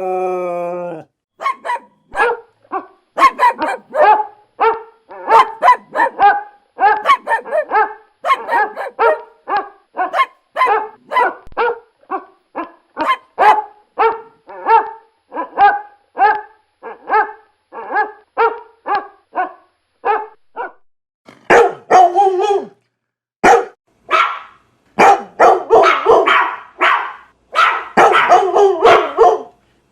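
A dog barking over and over in quick succession, about two to three barks a second, after a long howl that ends in the first second. After a short break about 21 seconds in, the barking comes faster and rougher.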